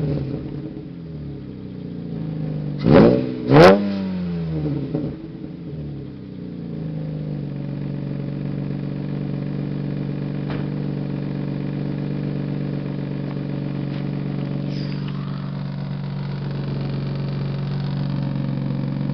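2005 Hyundai Tiburon V6 running through a Magnaflow oval muffler and straight pipes. The throttle is blipped twice in quick succession about three seconds in, each rev falling straight back, and then the engine settles into a steady idle.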